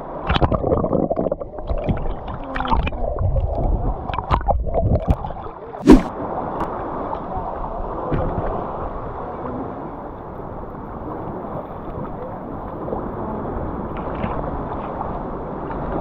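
Sea water sloshing and gurgling around an action camera held at the surface as it dips in and out of the water, with a sharp knock about six seconds in. After that, a steady wash of small waves.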